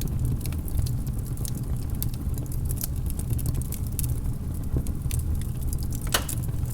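Wood logs burning in a fireplace: a steady low rumble of the flames with scattered crackles and small pops, and one louder snap about six seconds in.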